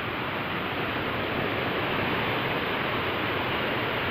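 Water rushing steadily over a stone waterfall, a continuous even roar.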